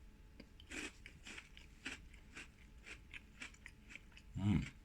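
Close-up crunching bites and chewing of a crisp biscuit with a soft pear-cream filling, in short sharp crunches about every half second. A brief hum of the voice comes near the end.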